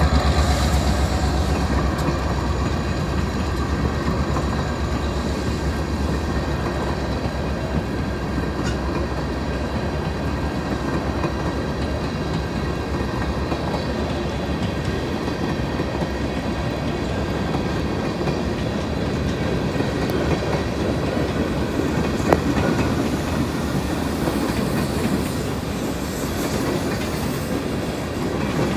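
Freight train cars, tank cars and then open-top rock hopper cars, rolling steadily through a grade crossing on steel wheels. A single sharp knock comes about three-quarters of the way through.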